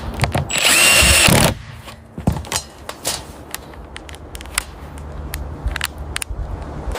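Carpentry work on a wooden frame. A power tool whines loudly for about a second near the start, then comes a run of scattered knocks and taps over a low hum.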